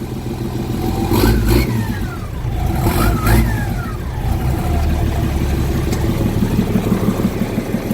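M35A2 truck's multifuel inline-six diesel engine running just after its first start since being installed, revved twice, with a whine that falls away after each rev.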